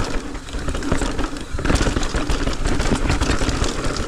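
Mountain bike riding fast down a dirt trail: knobby tyres rolling over dirt and rocks, with a steady clatter of chain and frame rattling over the bumps, and wind rumbling on the microphone.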